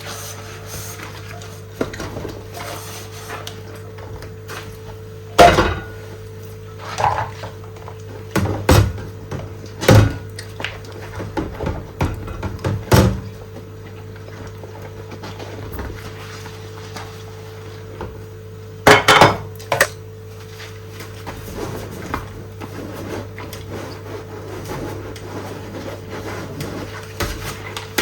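Dishes being washed by hand: plates, pots and utensils knocking and clinking now and then, with the loudest clatter as a close pair about two thirds of the way through. A steady hum runs underneath.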